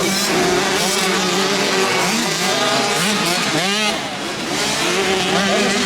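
Several motocross bikes' engines revving up and down as they race. A little past halfway, one engine swings quickly up and down in pitch a few times.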